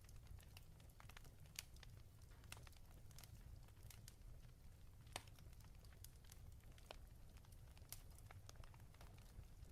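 Faint wood fire crackling in a fireplace: irregular small pops and snaps over a low steady rumble.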